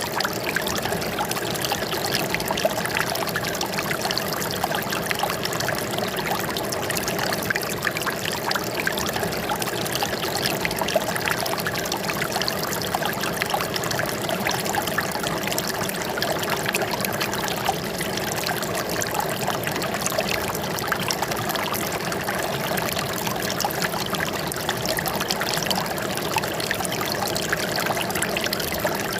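Running water trickling and splashing steadily, a continuous stream of fine drips and splashes with no pause or change.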